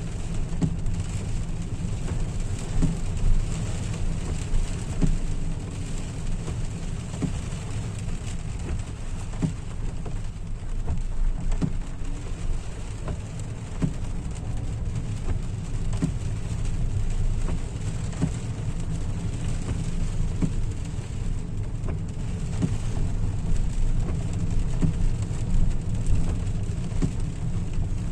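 Rain pattering on a car's roof and windscreen, heard from inside the cabin, with scattered drop ticks over the steady low rumble of the car driving.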